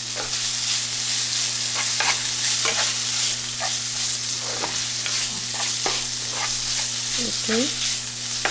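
Finely chopped chicken sizzling as it sautés in oil in a frying pan with no water added, a spatula scraping and stirring it every second or so. A steady low hum runs underneath.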